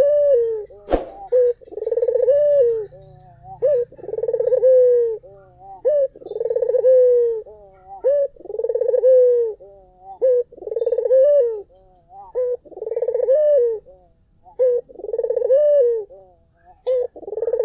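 Barbary dove (puter) cooing over and over, about every two seconds: a short note, then a longer, rough-textured coo. There is one sharp click about a second in.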